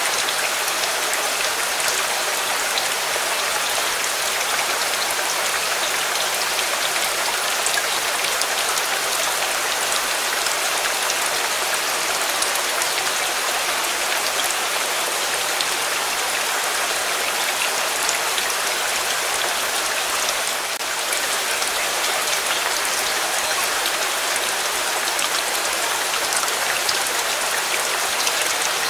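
Steady rain: an even hiss of rainfall with a dense patter of fine drops.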